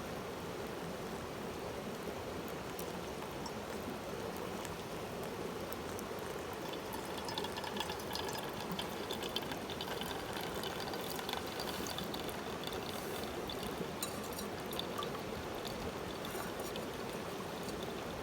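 Steady running water, with light clicks and tinkling from a little before halfway.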